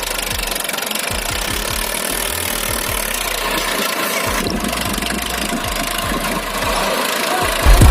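Tractor engine running steadily with a knocking chug, a little louder near the end.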